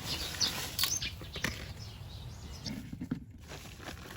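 Small birds chirping in short high notes over scattered light taps and scraping.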